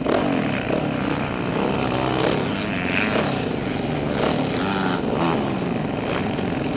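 Motocross dirt bike engine revving up and down repeatedly as the rider works the throttle and shifts.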